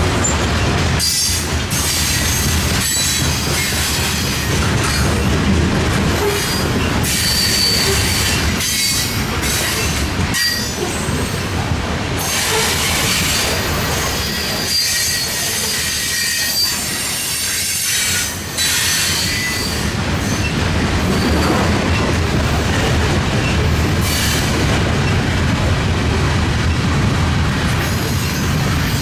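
Freight train cars rolling past, with steady wheel-on-rail noise, irregular clicks over rail joints and intermittent high-pitched wheel squeal.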